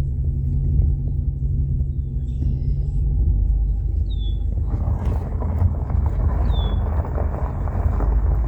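Union Pacific freight train's diesel locomotives running with a steady, loud low rumble; a little past halfway a rougher, wider noise joins in. A bird gives two short, high, falling chirps.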